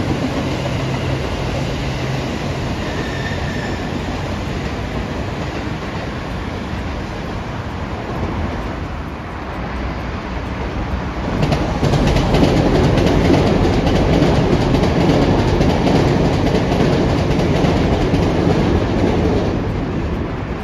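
Train running past on the rails, a steady rumble that grows louder about halfway through with clicking from the wheels over the track, easing off near the end.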